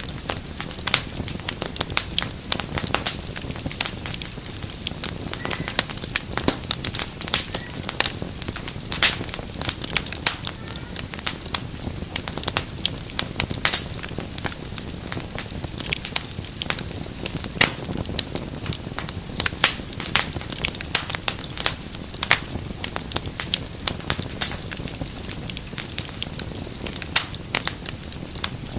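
Wood fire burning in a fireplace, crackling and popping irregularly over a low steady rumble of flames.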